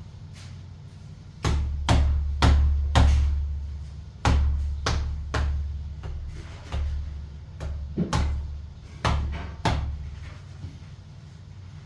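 Heavy hammer blows in tile demolition, about a dozen deep thudding strikes at roughly two a second with short pauses, starting about a second and a half in and stopping near ten seconds.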